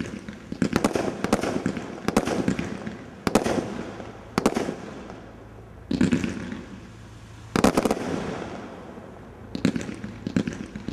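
Skycrafter Ultimate Warrior firework cake firing: volleys of rapid sharp bangs and crackles, a new volley starting every one to two seconds and dying away before the next.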